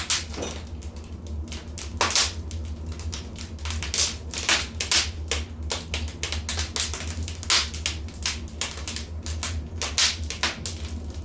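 Wood fire crackling in a fireplace: a dense run of irregular small clicks and pops, with louder snaps every few seconds, over a steady low hum.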